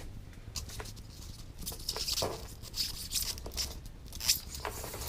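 Irregular scraping and rustling with scattered light clicks, a run of louder scrapes about two seconds in.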